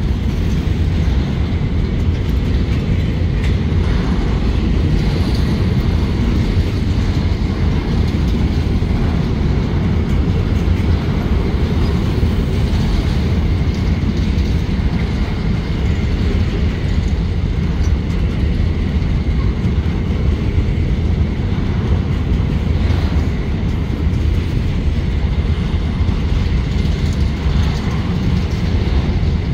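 Freight train of grain hopper cars rolling past close by: a steady, heavy rumble of steel wheels on the rails, with faint clicks now and then.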